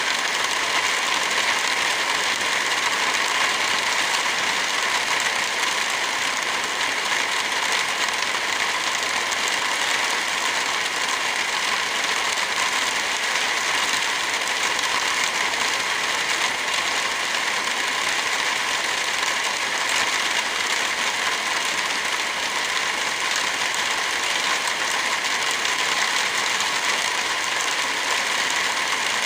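Steady rain falling in an even hiss, with the small pops of a crackling wood fire.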